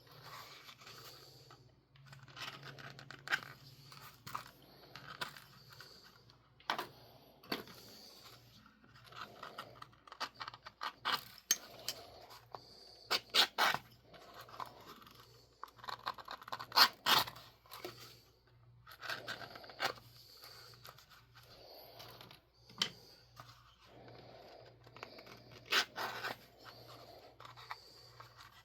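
Hand edge beveler skiving the edge of leather, a run of short, irregular scraping strokes with brief pauses between them.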